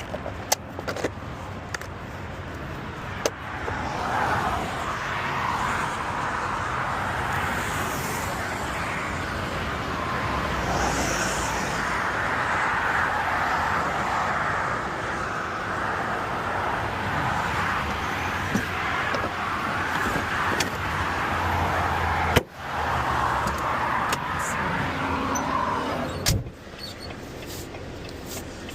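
Truck running with a steady engine and road noise, after a few sharp clicks in the first few seconds. The sound cuts out abruptly about 22 seconds in, returns, then drops away about 26 seconds in.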